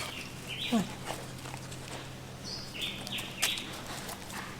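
Animal calls outdoors: short high chirps several times and one falling call about a second in, over a faint low steady hum.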